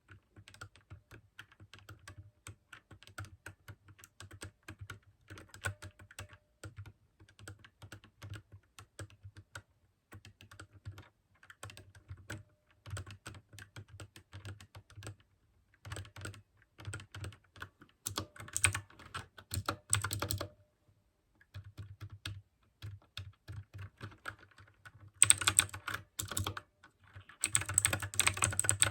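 Mechanical keyboard with clicky blue switches being typed on in continuous runs of keystrokes, each key a sharp click. The typing stops for about a second two-thirds of the way through, and the last few seconds bring faster, louder bursts.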